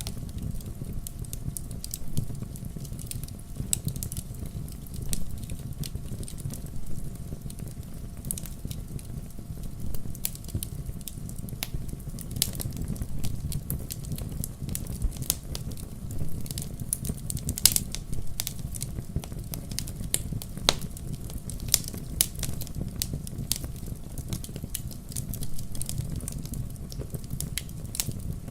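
Wood fire burning in a fireplace, crackling and popping at random over a steady low rumble of the flames, with a few louder snaps.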